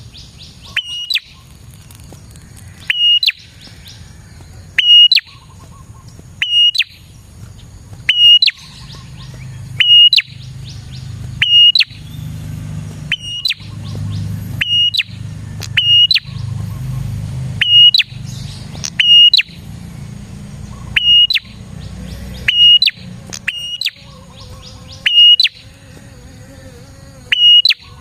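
Prenjak (prinia) calling: short, loud, high notes repeated every second or two, often in pairs. A low rumble runs under the calls through the middle.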